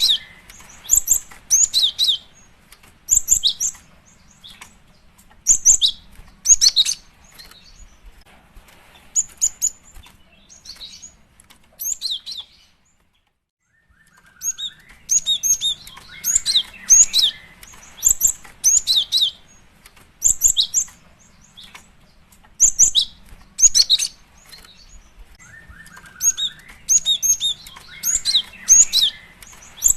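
Female cinereous tit (gelatik batu) calls: clusters of short, high, thin chirps repeated every second or two, used as a lure call to draw in males. The calls break off for about a second and a half midway, then resume.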